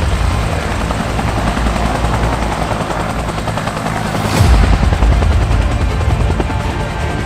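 Helicopter flying: a loud, steady low drone of rotors and engine, with a sudden rise in loudness about four and a half seconds in.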